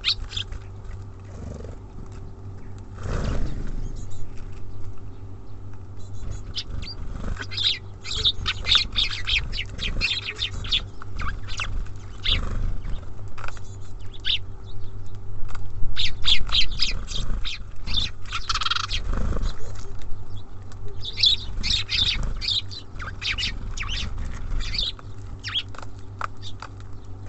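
Small birds such as tits and sparrows at a feeder: scattered short chirps and quick clicks and taps, with a few low thumps, over a steady low hum.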